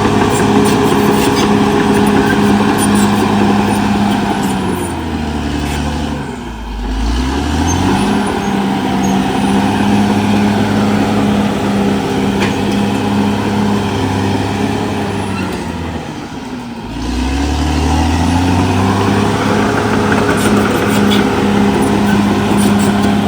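Cat D6R XL bulldozer's diesel engine running hard under load, its note falling away and climbing back up twice, about six and about sixteen seconds in.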